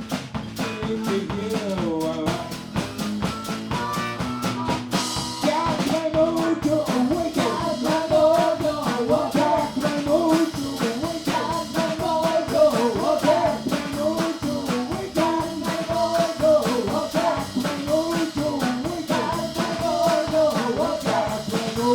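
Live band playing an upbeat song with drum kit and a wavering lead melody line, the drums keeping a steady fast beat, with a cymbal crash about five seconds in.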